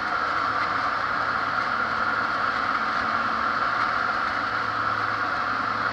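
Cessna 206 single-engine airplane's piston engine and propeller running steadily, a constant drone with a low hum.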